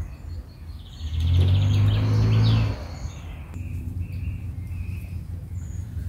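Small birds chirping in short calls. About a second in, a louder low rumble rises and holds for under two seconds, then stops.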